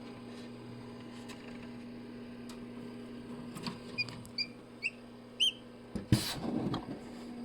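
Small bird peeping: about five short, high chirps, each rising in pitch, in quick succession from about halfway through, followed by a burst of rustling near the end.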